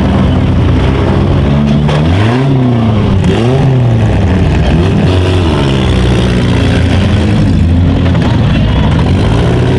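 Several small-car engines revving up and down over and over, their pitches rising and falling and overlapping.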